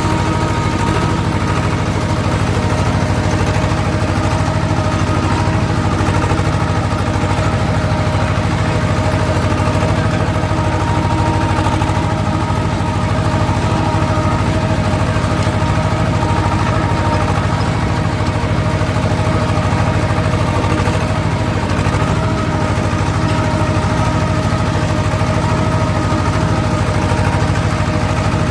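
Swaraj tractor's diesel engine running at a steady, unchanging speed, a continuous low drone with a faint steady whine above it.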